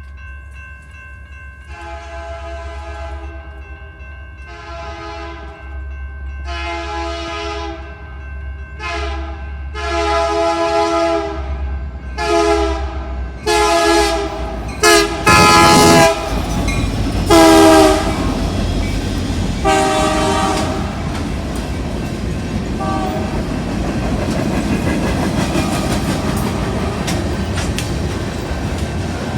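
A BNSF freight train's locomotive air horn, a chord of several tones, blowing a string of mostly long blasts with a few short ones, growing louder as it nears and loudest about halfway through. The train then rolls past with a steady rumble and wheel noise.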